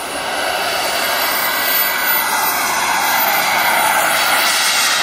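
Turbine engine of a large radio-controlled model jet running at high power on its takeoff run, growing louder about half a second in and holding loud.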